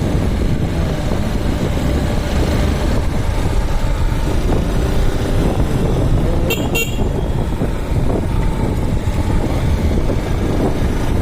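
Motorcycle running along a highway, a steady low rumble of engine, road and wind. A vehicle horn gives two short, high toots about six and a half seconds in.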